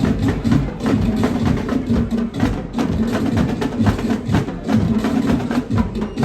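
Marching drum corps playing a fast, steady rhythm, with many sharp drum strikes over a steady low tone.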